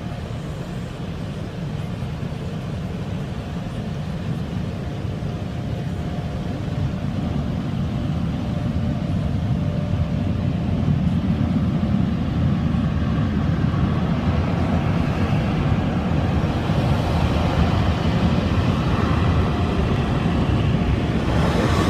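Automatic car wash machinery heard from inside the car: a steady, loud rushing noise that grows gradually louder, with more hiss coming in during the last third.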